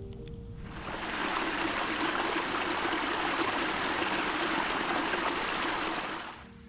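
Water of a stream or creek flowing over rocks, a steady rushing that fades in about a second in and fades out near the end.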